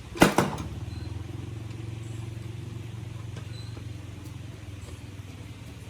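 Small motorbike engine idling steadily with a fast, even low pulse, after the repair. Two sharp knocks come just after the start.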